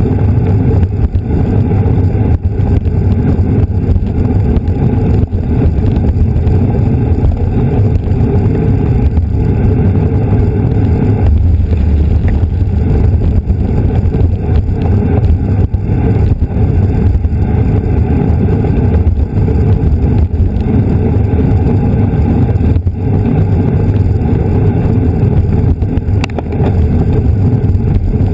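Loud, steady wind rumble buffeting the microphone of a camera carried on a racing bicycle at speed.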